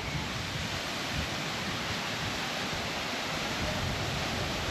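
Small waterfall on a mountain stream: a steady, even rush of falling water.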